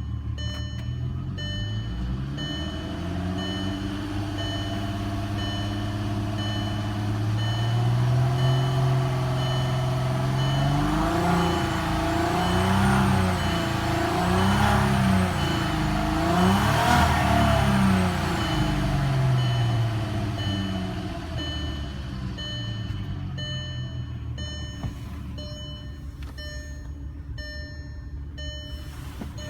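2.8-litre 24-valve VR6 (BDF) engine of a 2003 VW Jetta GLI idling, then revved in several blips in the middle before settling back to idle; it runs smoothly, offered as a super quiet runner. A steady electronic beep repeats about once a second throughout.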